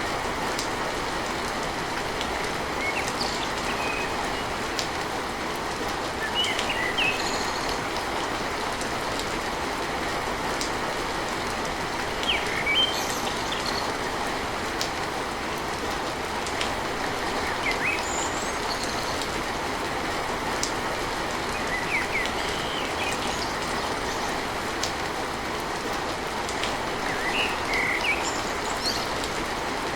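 Steady heavy rain drumming on a tin roof, an even rushing patter, with short high bird chirps every few seconds.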